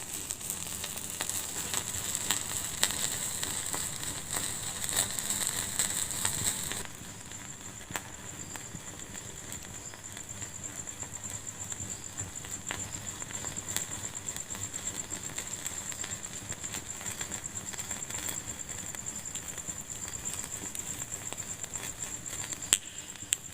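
Wood fire crackling in a fireplace: a steady stream of small pops and snaps over a soft hiss. The crackle drops suddenly to a quieter level about seven seconds in.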